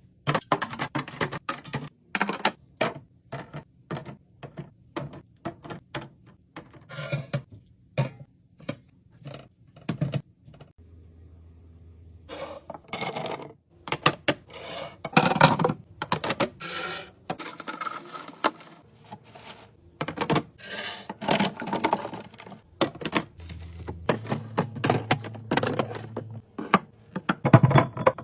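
Containers being handled and set down while restocking a fridge: a dense string of irregular taps, clicks and clacks, with a brief lull about eleven seconds in.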